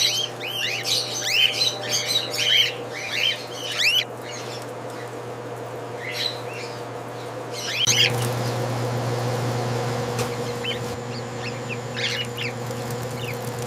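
Many cockatiels chirping and calling, a dense chatter for the first few seconds that then thins to scattered calls, over a steady low hum that grows louder about halfway through.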